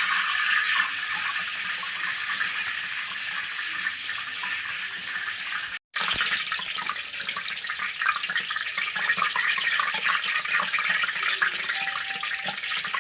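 Pork belly pieces deep-frying in hot oil over high heat: a steady sizzle full of fine crackles. The sound drops out for a split second a little before halfway.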